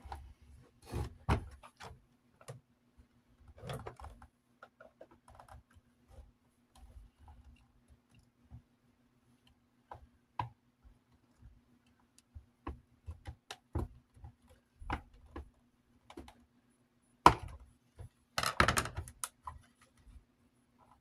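Small metal and plastic fan parts being handled and worked with a screwdriver: scattered clicks and taps, with one sharp knock about seventeen seconds in followed by a short spell of rubbing and scraping.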